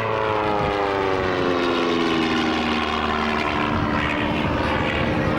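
An aircraft flying past, its engine drone falling in pitch over the first two to three seconds as it goes by, then holding steady.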